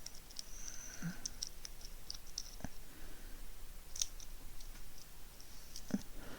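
Small plastic parts and packaging being handled: a few faint, sharp clicks spread through, with light rustling between them.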